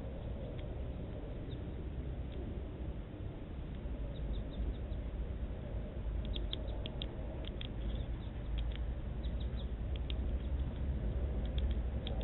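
Small birds at a seed feeder giving short, high chirps in quick clusters, mostly from about four seconds in, over a steady low rumble.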